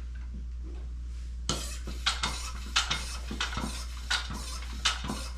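Metal clinking and clattering: irregular sharp knocks of steel parts and hand tools being handled, starting about a second and a half in, with a steady low hum underneath.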